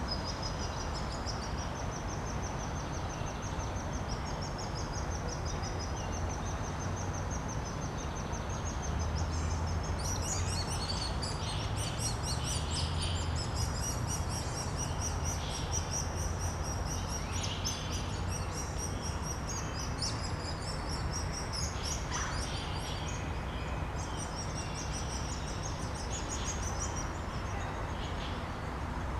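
Woodpecker nestlings begging: continuous high-pitched, rapid trilling calls that grow busier and more chattering about ten seconds in, over a steady low background rumble.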